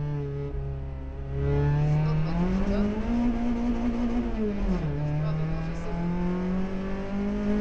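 Rally car engine at full stage pace, heard from the bonnet: the revs climb about two seconds in, hold high, drop sharply near five seconds as the driver lifts or changes gear, then climb slowly again.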